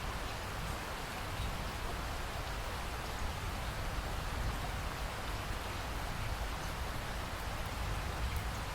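Steady rain falling, with scattered drips and a low rumble underneath.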